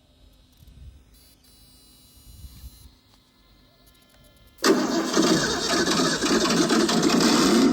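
An RC race car rig's engine-start sound cuts in suddenly about four and a half seconds in and then runs on loudly and steadily, after faint near-quiet before it.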